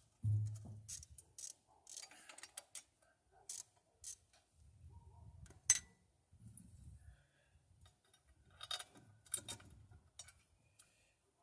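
Scattered metallic clicks and taps of bolts and hand tools against an exhaust manifold as its bolts are being started into the cylinder head of a Ford Fairlane engine. One sharp clink a little past halfway is the loudest, and there is a low thump right at the start.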